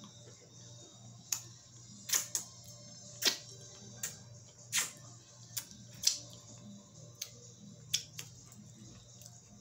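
Close-up eating sounds while chewing cake: about a dozen sharp, wet mouth clicks and smacks at irregular intervals.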